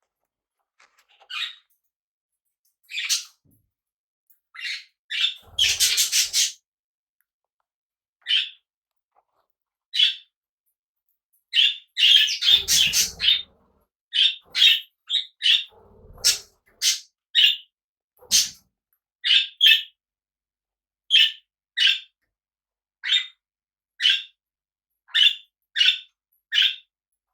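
Pet parrots calling: short, sharp chirping calls repeated about once or twice a second, with louder, denser bursts of squawking about six seconds in and again around twelve seconds in.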